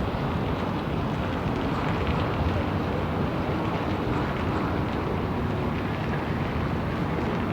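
Steady city ambience: a continuous low rumble of distant traffic with no single sound standing out.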